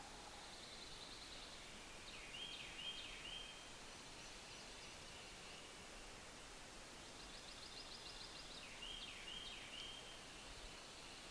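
A songbird singing faintly in quiet woodland: a quick high trill followed by three short swooping notes, the phrase given twice about six seconds apart.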